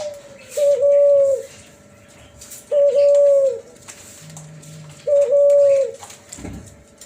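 F1 hybrid dove (Kelantan spotted dove crossed with a Tangerine puter dove) cooing in its flute-like 'suling' voice. It gives three drawn-out coos, each about a second long on one steady pitch with a small dip at the start and a fall at the end, spaced about two seconds apart. A brief low thump comes just before the end.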